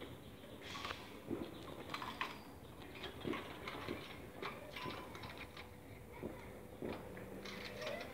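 Scattered light taps and scratches, with faint animal sounds, likely birds.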